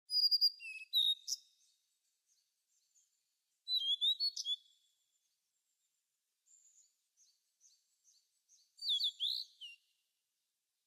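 Wild birds calling in woodland: quick high chirps and whistles in three bunches, at the start, about four seconds in and about nine seconds in, with faint chirps between.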